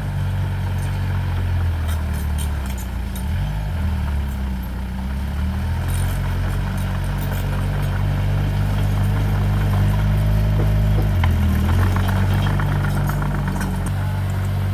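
Diesel engine of heavy earthmoving machinery running steadily, its low note dropping and rising a few times, with light scattered clicks over it.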